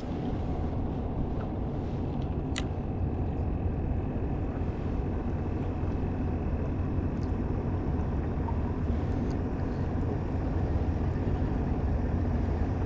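A small boat's motor running steadily with a low, even rumble. There is one sharp click about two and a half seconds in.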